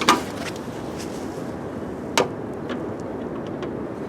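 Two sharp metallic clicks, one right at the start and one about two seconds in, followed by a few faint ticks, from work on a car door's latch and striker.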